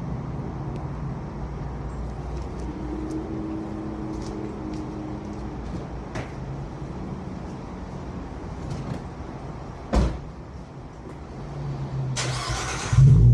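2015 Ford Mustang 3.7 V6 exhaust, fitted with an x-pipe and Evil Energy mufflers: a steady low rumble for about ten seconds, then a single knock. Near the end, a short noisy burst is followed by a sudden, much louder exhaust rumble.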